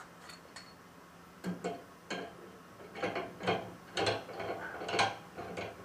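Metal wheel-balancer adapter cones and fittings being handled and set against each other: a run of sharp clicks and clinks, sparse at first and coming thicker from about three seconds in.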